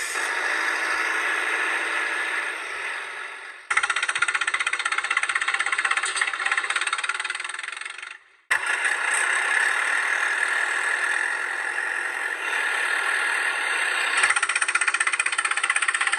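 Heavy vehicle engine sound effect running with a rapid rattling chug, in spliced segments: it cuts and restarts abruptly about a third of the way in, drops out briefly near the middle, and changes again near the end.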